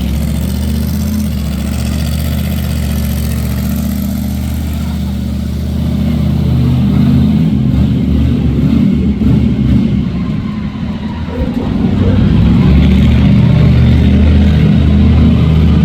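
Monster truck engine running loud and low, revving up about six seconds in and again near twelve seconds.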